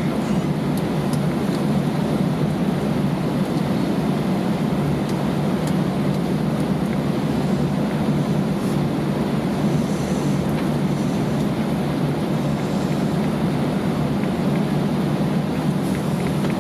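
Steady cabin noise inside an Airbus A320 on the ground after landing: an even low rumble with air hiss above it, unchanging throughout.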